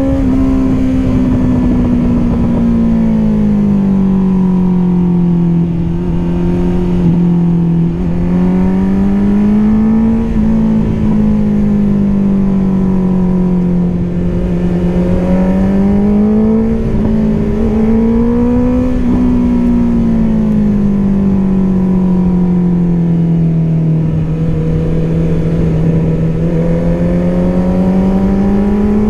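Honda CBR650R's inline-four engine running through an Akrapovic exhaust while riding, its pitch rising and falling gently several times as the throttle is rolled on and eased off.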